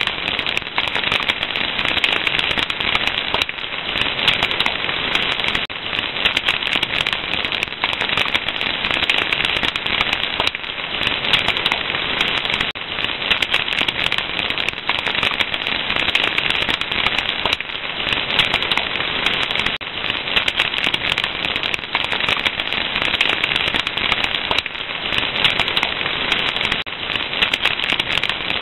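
Wood fire crackling steadily: a dense, unbroken run of small pops and snaps over a constant hiss.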